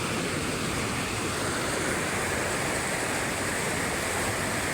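Rushing river water, a steady loud rush with no breaks.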